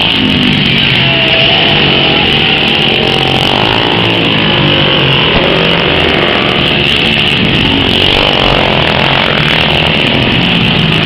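Racing engines running hot laps, a loud continuous drone whose pitch wavers up and down as the machines go around the track.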